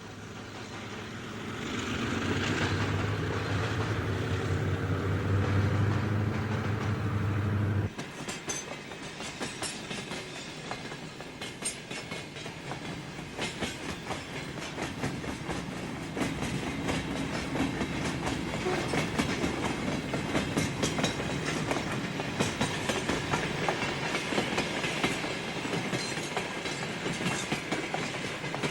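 GE U25B diesel freight locomotive pulling out, its engine note rising a little as it works. After an abrupt cut about eight seconds in, freight cars roll past with a steady run of wheel clicks over the rail joints.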